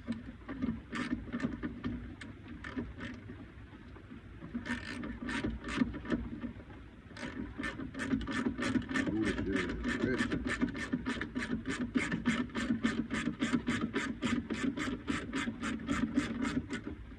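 A hand ratchet wrench clicking. There are a few scattered clicks at first, then from about seven seconds in a fast, even run of about four clicks a second, as if a fastener is being run on or off.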